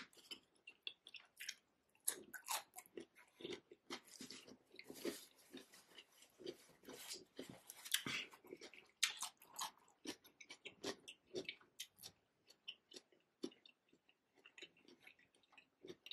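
A person chewing saucy seafood from a seafood boil: wet chewing and lip smacks, irregular, some coming in quick clusters.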